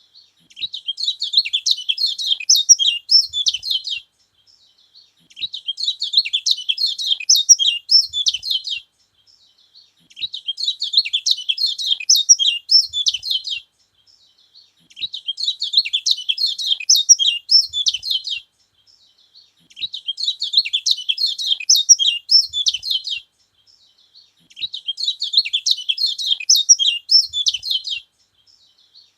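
Kecial kuning (yellow white-eye) singing in bursts of rapid high twittering chirps. Six bursts, each about three and a half seconds long, come with short pauses between them, about one every five seconds.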